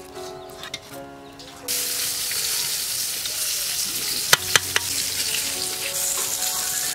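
Food sizzling in hot oil in a pan, growing much louder after a couple of seconds, with a utensil clacking sharply against the pan two or three times about four and a half seconds in.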